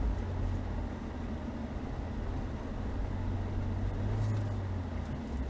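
Chevrolet Niva's four-cylinder engine running as the SUV drives slowly through snow, a steady low hum that swells briefly about four seconds in.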